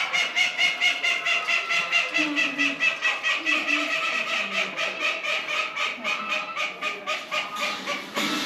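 A farm bird calling in a fast, even run of repeated notes, about five a second, on a steady pitch with no break.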